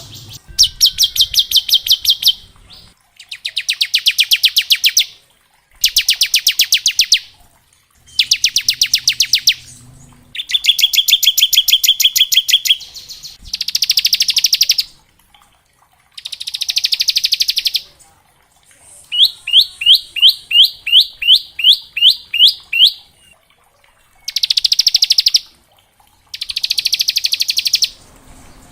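Bar-winged prinia (ciblek) singing in its 'ngebren' style: repeated bursts of very fast, high trilled notes, each lasting about two seconds with short pauses between. About two-thirds of the way in comes a slower run of about a dozen rising chirps, roughly three a second.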